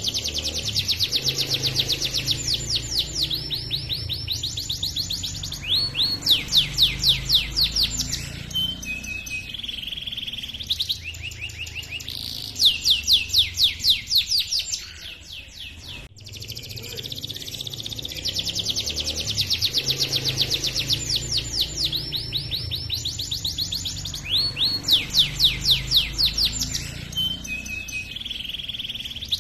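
Male domestic canary singing a long rolling song: fast trills, each a rapid run of repeated high notes, joined by short pauses between phrases. The same sequence of phrases starts over about halfway through.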